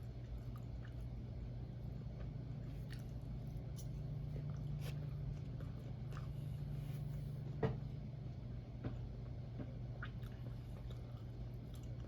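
Close-up chewing of soft pancakes, with faint wet mouth clicks over a steady low hum and one sharper click about seven and a half seconds in.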